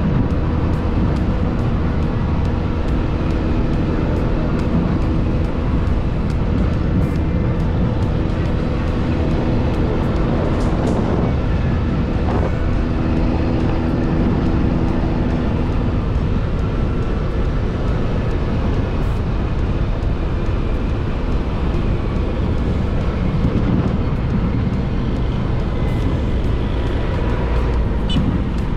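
Car driving along a road: steady engine and road rumble, with a low engine hum that fades about halfway through.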